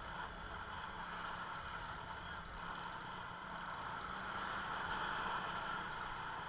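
A motor vehicle running steadily with road and wind noise, growing a little louder about five seconds in.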